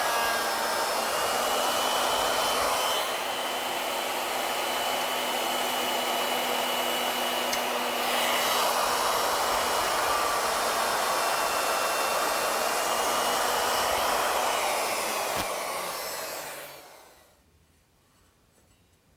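Router on an ornamental milling machine running with a steady high whine while a surface planing bit cuts a flat in a wooden part. About three-quarters of the way through it is switched off and winds down.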